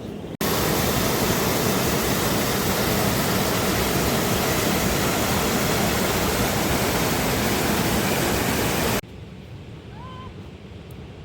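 Loud, steady rush of water that starts abruptly about half a second in and cuts off sharply about nine seconds in, leaving a quieter steady hiss.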